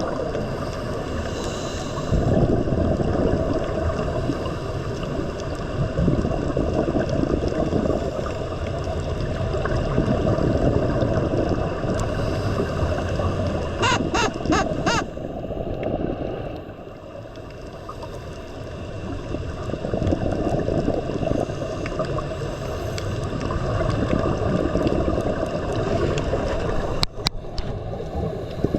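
Steady rumbling rush of water with wind noise on the microphone, dipping for a moment past the middle. A short run of sharp clicks comes about halfway through and another click near the end.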